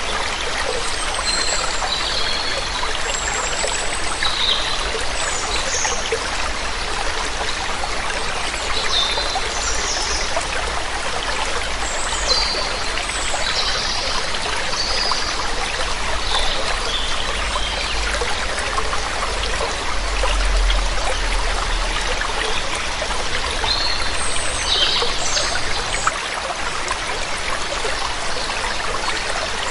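Water running and splashing steadily over a small waterfall, with birds giving short, high chirps on and off over it.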